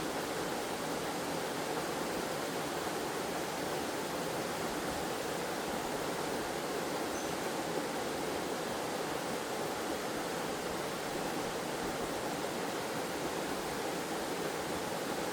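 Waterfall or cascading forest stream: water rushing in a steady, even hiss that never changes.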